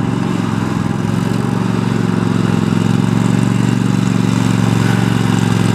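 Kohler 7000 Series 24 HP 725cc V-twin engine of a Toro TimeCutter MX5050 zero-turn mower running steadily, getting slightly louder about halfway through.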